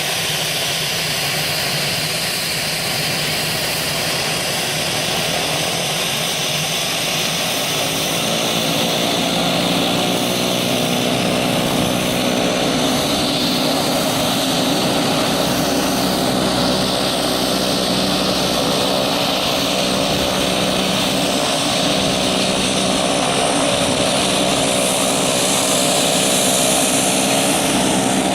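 Airplane engine running steadily and growing slightly louder. A humming drone with several steady pitches comes in about eight seconds in.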